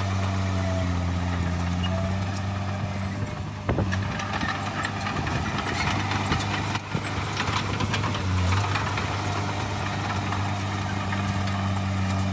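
Heavy diesel earthmoving machinery running steadily, with a low engine drone and clattering over it. Two sharp knocks come about four and seven seconds in.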